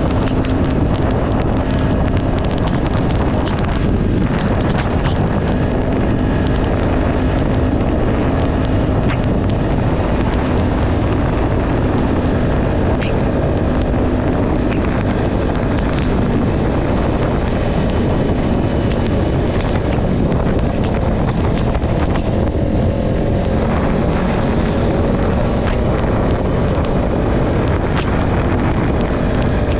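Kawasaki Ninja 400's parallel-twin engine running at a steady cruise, under heavy wind rushing over the microphone.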